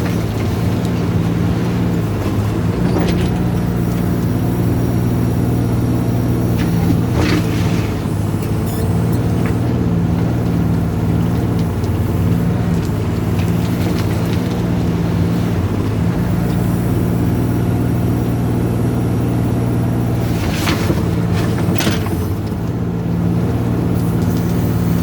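Volvo mini excavator's diesel engine running steadily while digging, its pitch shifting slightly with the load a few times. A few brief clanks stand out over it.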